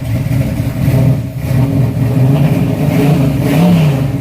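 Freshly installed 360 small-block Chevy V8 with a roller cam running loud on its first start-up, revved up and back down a few times, the highest rev near the end.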